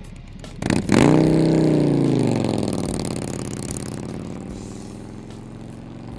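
Motorcycle engine revved hard about a second in, its pitch rising and then falling back as it settles into a steady run that slowly fades.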